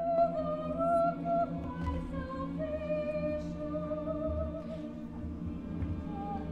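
High school choir singing long held notes: a melody line moves slowly over a sustained chord in the lower voices.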